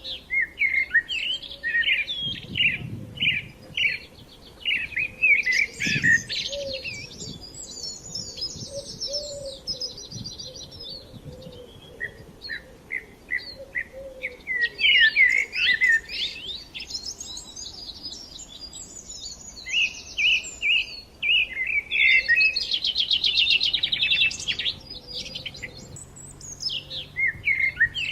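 Several small songbirds singing and chirping at once, with overlapping short calls and fast trills of rapidly repeated high notes.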